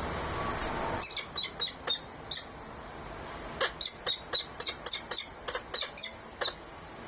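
Bird calling in a rapid series of short, high-pitched chirps, in two runs, starting about a second in. Before that there is a rushing noise that stops abruptly.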